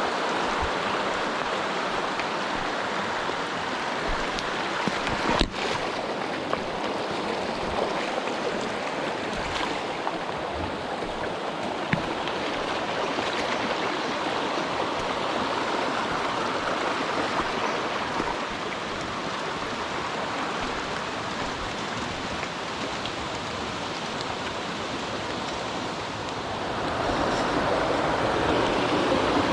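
Mountain stream rushing steadily over rocks, growing louder near the end, with a sharp knock about five seconds in.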